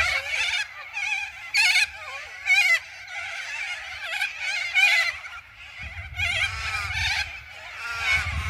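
A large flock of corellas screeching and chattering at once, many harsh overlapping calls, with louder single screeches standing out about two seconds in and again around five seconds.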